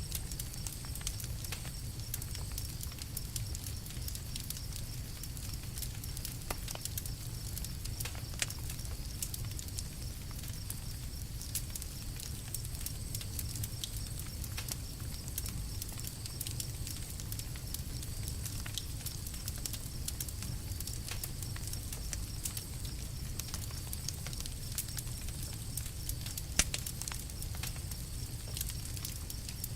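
Campfire burning with a steady low rumble and scattered sharp crackles and pops, two of them louder, about eight seconds in and near the end.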